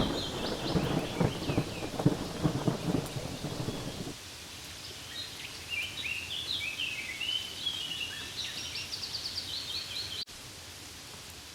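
Steady rain hiss with a low rolling thunder rumble that cuts off abruptly about four seconds in. High bird chirps come over the rain near the start and again through the middle.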